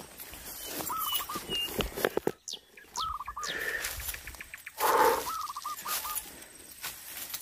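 A bird repeating a short call of four or five quick, even notes about every two seconds, with a few thin whistles between. A few clicks and a brief louder rush of noise come about five seconds in.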